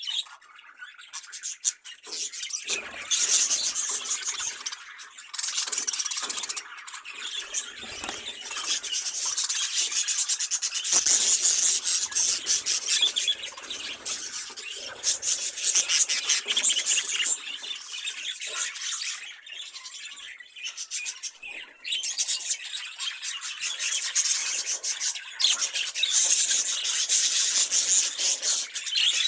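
A group of budgerigars chattering and warbling almost without a break: a dense, high-pitched chatter mixed with quick clicks, swelling and dropping back every few seconds.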